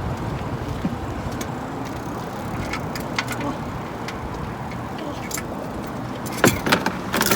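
Scattered clicks and clinks of hand tools being handled, with a cluster of louder clinks near the end, over a steady background rumble.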